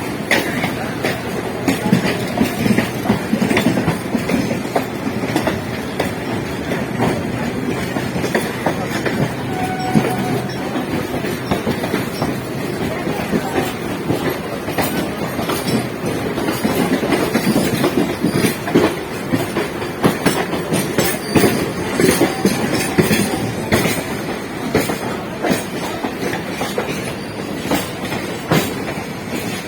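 Electric multiple unit local train running along the track: a steady rumble with repeated clickety-clack of wheels over rail joints.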